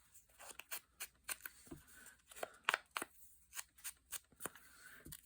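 Paper and craft pieces handled on a tabletop: a run of light, irregular taps and rustles, a few every second.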